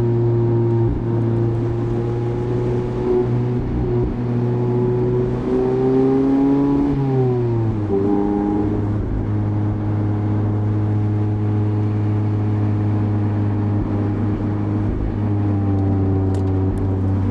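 Mazda MX-5's 1.5-litre four-cylinder engine pulling steadily while driving. Its note rises a little, falls smoothly about seven seconds in, then holds steady at a lower pitch.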